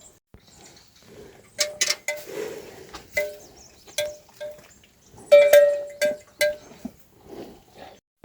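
Small metal livestock bells clanking in irregular strikes, each with a short ring. The loudest and longest ring comes a little over five seconds in.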